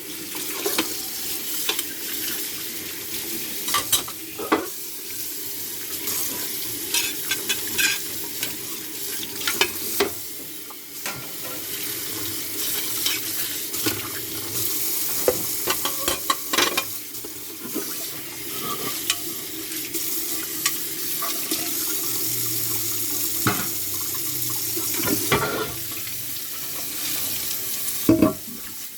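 Washing dishes by hand at a sink: a steady hiss of running water and scrubbing, with frequent clinks and knocks of dishes being handled.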